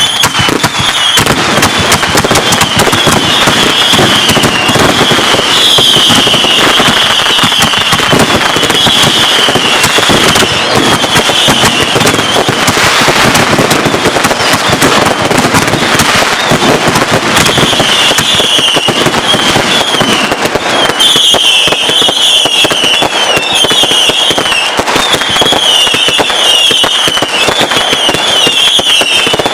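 Many consumer fireworks going off at once: a dense, continuous barrage of crackling and bangs with a string of short whistles, each falling in pitch.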